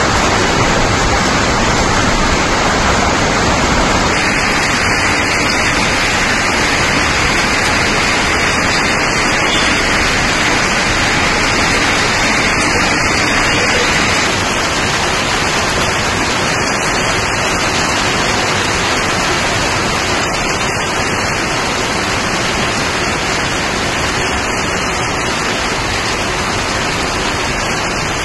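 Heavy rain pouring down in a steady, dense hiss, with water running off a corrugated sheet roof; the hiss changes its tone slightly a few seconds in and again about halfway through.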